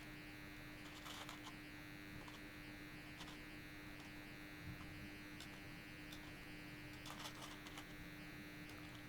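A faint, steady electrical hum, with a few faint light clicks from beads being handled and threaded onto thread.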